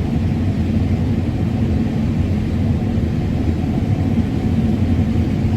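Combine harvester running under load while cutting corn, a steady low rumble with a constant hum, heard from inside the cab.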